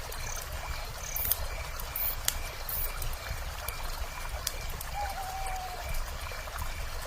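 A river running steadily, with a campfire crackling in sharp, scattered pops, mostly in the first few seconds. A faint high chirp repeats about twice a second, and a single short call with a slightly falling pitch comes about five seconds in.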